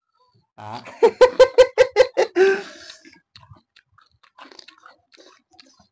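Mukbang eating sounds: a person chewing and crunching food, with a short burst of laughter in quick pulses about a second in, then fainter chewing clicks.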